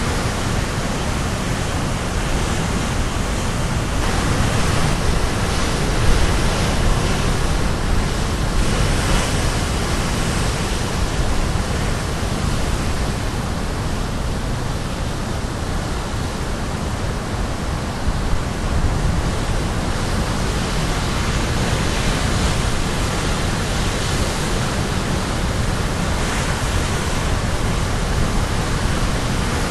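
Caribbean Sea waves crashing on the shore, a steady dense rush of surf that swells a little and eases again.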